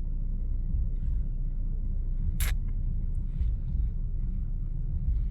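Low, steady rumble of a stationary car running at idle, heard inside the cabin, with one sharp click about two and a half seconds in.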